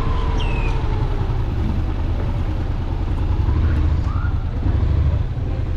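A vehicle running on the move: a steady low engine and road rumble, with wind rushing over the microphone.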